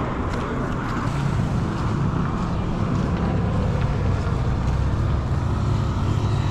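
Engine and road noise of a moving vehicle, a steady low drone, with wind buffeting the microphone.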